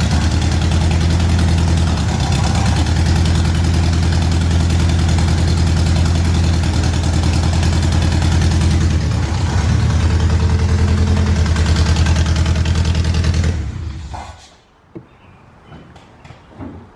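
An old manual car's engine running steadily, then stopping abruptly about thirteen seconds in. A few faint knocks follow.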